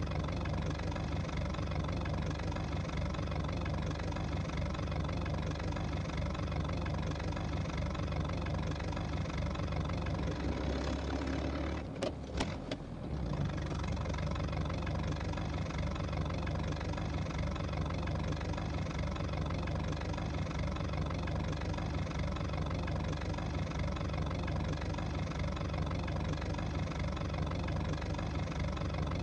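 Car engine running steadily at idle, with a brief dip and a couple of clicks about twelve seconds in.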